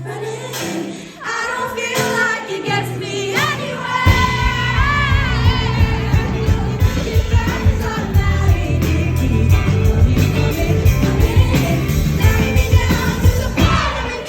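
Live band music with sung vocals, recorded from the audience in a concert hall. A few seconds in, heavy drums and bass come in under the voices and the music gets louder.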